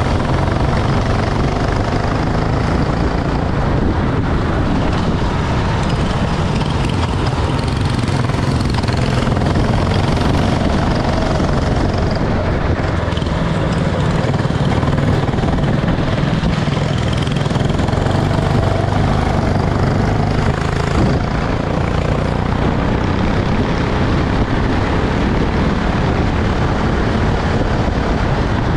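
Racing kart engines running, their pitch drifting up and down over a steady rushing noise.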